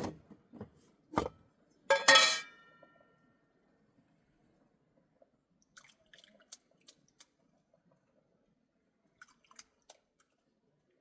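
A knock, then a loud clink about two seconds in as a dish or vessel is struck or set down, ringing briefly, followed by a few faint ticks.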